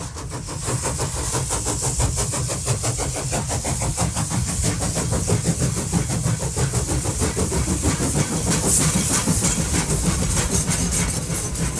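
A motor running steadily with a rapid rattling pulse and a hiss over it, rising in level over the first second.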